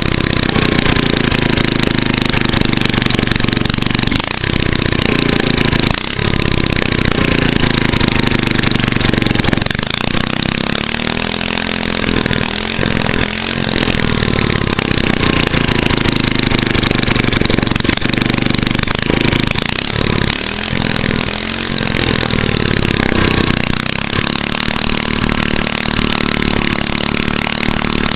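Tecumseh 5 hp single-cylinder four-stroke engine running with an open exhaust port and no muffler, its governor removed, the engine speed rising and falling several times as it is throttled up and down.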